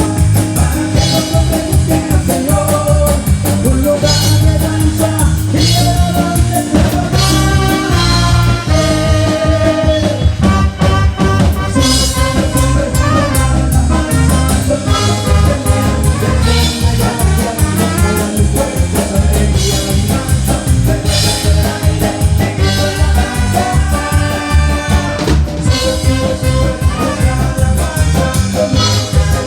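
Live band playing upbeat worship music with a driving drum-kit beat and a ska-like rhythm, with some singing.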